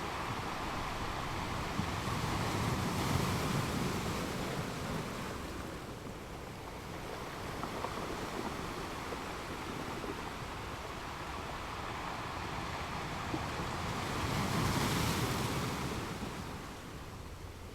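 Ocean waves breaking and washing on a beach: a steady surf hiss that swells twice, about three seconds in and again near the end.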